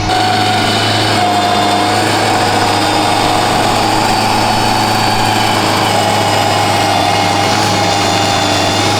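Rayco RG55 stump grinder's engine running steadily at high speed.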